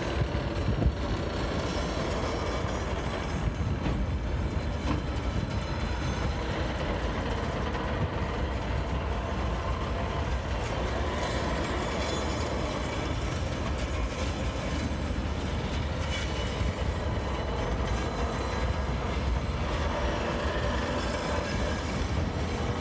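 Freight train of cement wagons rolling slowly, a steady low rumble with a few faint clicks.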